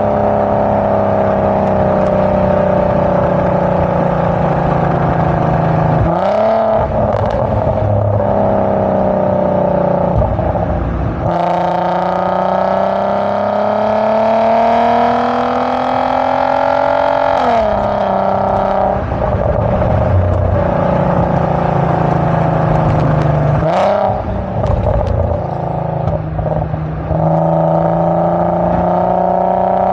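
VW MK5 Golf R32's 3.2-litre VR6 exhaust, its resonator replaced by a Magnaflow straight-through muffler, while the car is driven. The engine note climbs steadily under acceleration and drops sharply at several gear changes.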